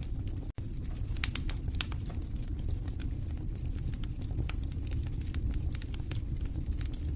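Wood fire burning in a fireplace: irregular crackles and pops over a steady low rumble of the flames, with a couple of louder pops a little over a second in. The sound cuts out for an instant about half a second in.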